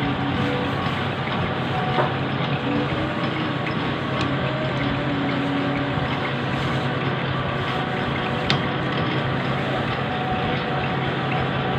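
Machine tool running steadily while cutting a keyway in metal: a constant low hum with cutting noise over it, and a couple of sharp clicks, about two seconds in and again near eight and a half seconds.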